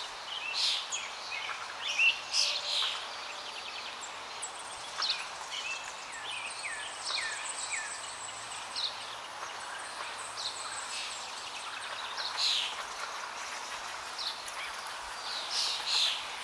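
Small birds chirping, many short high calls coming in clusters over a steady background hiss.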